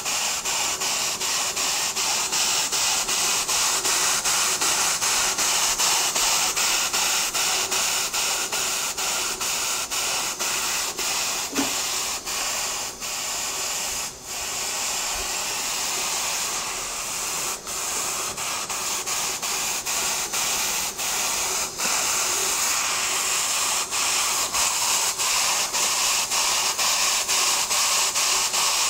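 Stuart model beam engine running in steam: a steady hiss of steam broken by quick, even exhaust beats.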